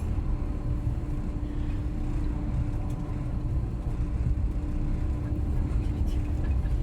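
Passenger train running along the line, a steady low rumble heard from on board, with a constant hum that fades out near the end.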